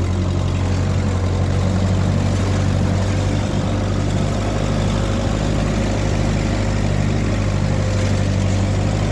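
1948 Ford 8N tractor's four-cylinder flathead engine running steadily as the tractor is driven with the wood splitter hooked up, with a faint steady whine above the engine note.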